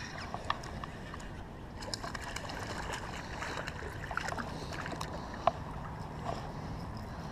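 Kayak afloat on a creek: water sloshing against the hull, with a few sharp clicks and knocks, the loudest about five and a half seconds in.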